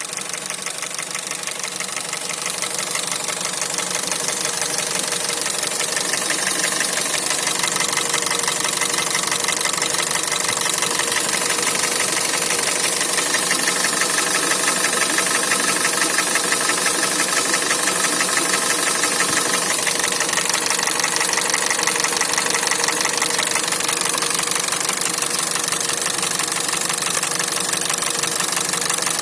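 Warm Hyundai/Kia G4NA 2.0-litre four-cylinder petrol engine running with a steady, rapid knock, the sign of a scored number-four cylinder. It grows a little louder over the first few seconds, then holds steady.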